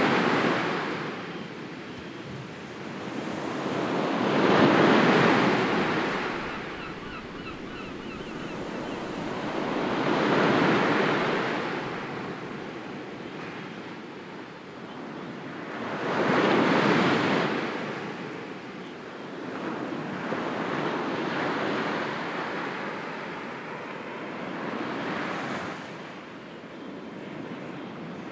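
Sea waves washing in on the shore, six slow surges that each swell and fall away, about one every five seconds.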